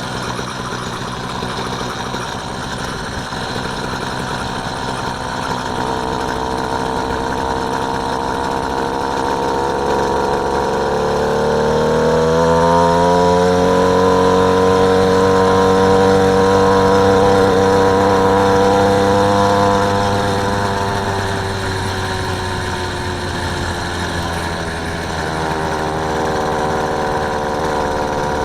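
Motorised bicycle engine running under way. It speeds up and gets louder from about ten seconds in, holds a higher pitch for several seconds, then eases back down a little after twenty seconds.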